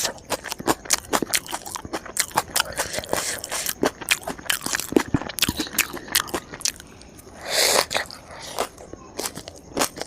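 Close-miked crunching and chewing of crisp food, a fast, uneven run of crunches, with a short hissing swell about two-thirds of the way through.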